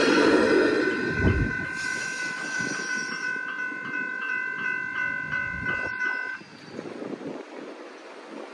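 A passing Sprinter diesel railcar's rumble fades away. The level crossing's bell keeps ringing in a steady pulsing pattern about twice a second, then cuts off suddenly about six seconds in as the crossing deactivates.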